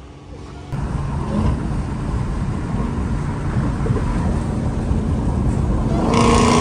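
Muscle car engine running with a loud, deep rumble. It starts abruptly about a second in and gets louder near the end.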